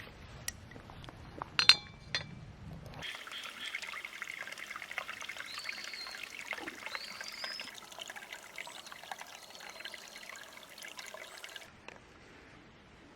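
A sharp clink about a second and a half in, then liquid poured steadily for about eight seconds, with faint rising tones as the vessel fills, stopping abruptly near the end.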